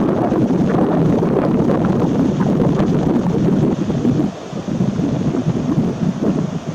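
Wind buffeting the microphone in loud, low gusts, easing a little about four seconds in.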